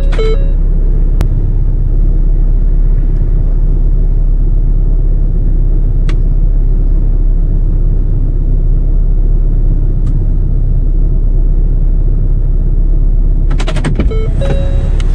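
Car engine idling, a steady low rumble heard from inside the parked car's cabin. Near the end, a few sharp clicks as the door opens, followed by a short repeating chime.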